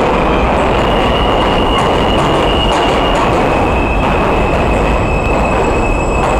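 New York City subway R train running on the rails with a loud, steady rumble of wheels on track. A thin high-pitched wheel squeal starts about a second in and carries on, dropping slightly in pitch around halfway.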